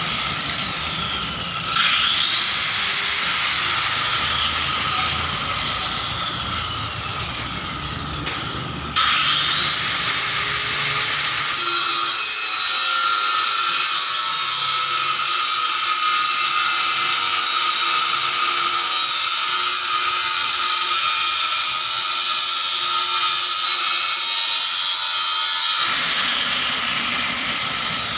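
A high-pitched electric power tool spins up quickly to speed and runs steadily, starting up twice, about 2 seconds and about 9 seconds in.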